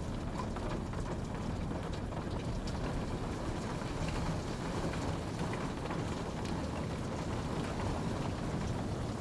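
Steady rain falling, a constant dense patter with scattered individual drops.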